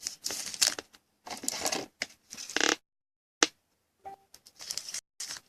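Trading cards being handled and slid against one another: a series of short scraping swishes and clicks with brief pauses between them.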